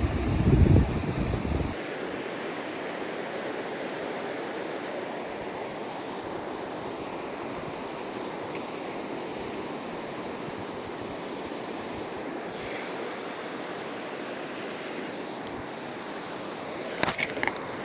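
Ocean surf washing steadily onto a sandy beach. A loud low rumble stops abruptly in the first two seconds, and a few sharp clicks come near the end.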